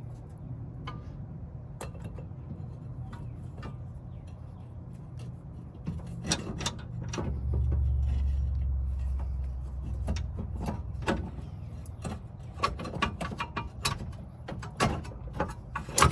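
Irregular metal clicks, clanks and knocks of brake parts being worked and forced into place on a car's front wheel assembly, thickening in the second half. A low rumble swells under them for a few seconds around the middle.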